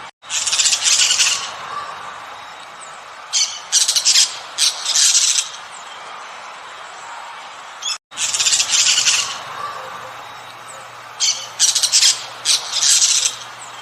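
A bird squawking in harsh bursts over a steady background hiss. The bursts come in two groups, one group about a second in and another about three to five seconds in. After a brief dropout the same pattern of calls repeats.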